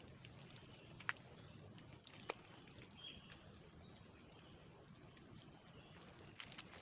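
Quiet forest ambience: a steady, high-pitched insect drone, with two sharp clicks about a second and two seconds in.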